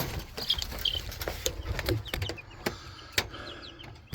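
Baby chicks peeping in short, high, falling chirps, with scattered knocks and clicks from a feeder being set down in the brooder pen.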